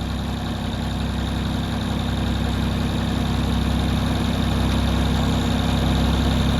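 Massey Ferguson 135 tractor engine running steadily at idle after new fuel filters were fitted, growing slightly louder.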